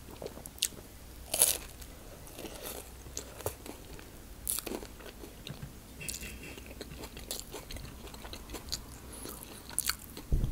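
Close-up bites and chewing of a bruschetta on crisp bread, with sharp crunches, the loudest about one and a half and four and a half seconds in, and smaller crunches between.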